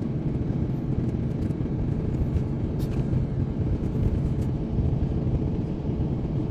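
Steady low rumble in the passenger cabin of an Airbus A350-900 airliner as it taxis to the runway.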